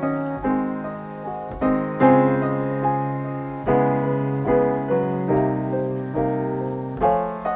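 Jazz piano playing a slow ballad introduction alone, chords struck about once a second and left to ring.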